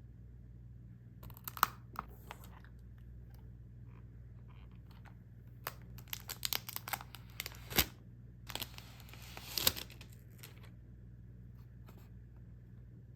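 Frozen-food packaging being handled and torn open: scattered crinkles and clicks, then a tear lasting about a second and a half, past the middle.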